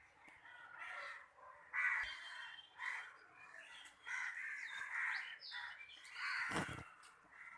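A bird calling a series of harsh, crow-like caws, about half a dozen calls.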